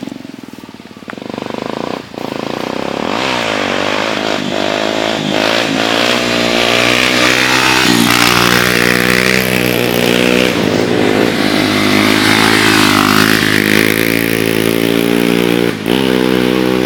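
Honda Tornado 250's single-cylinder four-stroke engine revved hard. The revs climb about three seconds in and stay high, dropping briefly and climbing again a few times.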